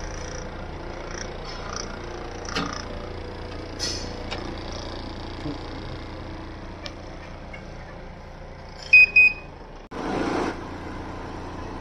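Daikin one-way cassette air conditioner's indoor unit running with its grille open, a steady hum with a few faint clicks. About nine seconds in come two short high beeps, followed by a brief rush of noise.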